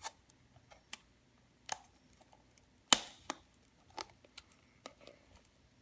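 Toy car packaging being handled: a series of sharp clicks and taps from a plastic protector box and the carton inside it, the loudest about three seconds in.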